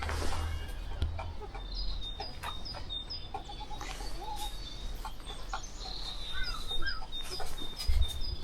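Chickens clucking, with many short high chirps from small birds repeating throughout; a low thump near the end.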